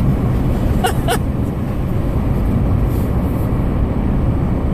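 Steady low road rumble inside a Ford Fusion's cabin as it drives through deep snow, with a few short clicks about a second in.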